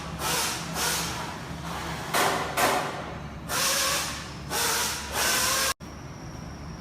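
Factory-floor noise: pneumatic tools giving repeated short bursts of compressed-air hiss over a steady machine hum. The noise cuts off suddenly near the end, leaving a quieter steady background.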